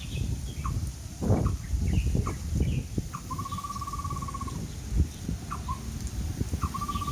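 A bird singing: short single notes, then a rapid, even trill about a second long, heard twice. Low wind rumble on the microphone runs underneath.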